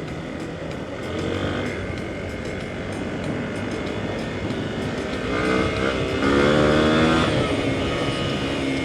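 Hero XPulse 200's single-cylinder engine running as the motorcycle is ridden, its revs rising and falling, loudest from about five to seven and a half seconds in.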